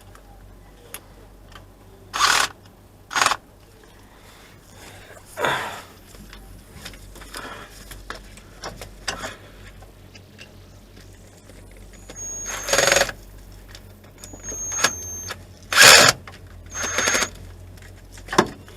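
Short scraping rasps of a hand tool on metal, about seven strokes spread out, with faint high squeaks beside some of them: working at the remains of a broken crankshaft sensor stuck in the engine.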